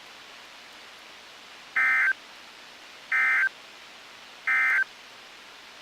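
Three short, identical buzzy digital data bursts about a second apart, over a low steady hiss. This is the NOAA Weather Radio SAME end-of-message code, sent three times to mark the end of the severe thunderstorm warning broadcast.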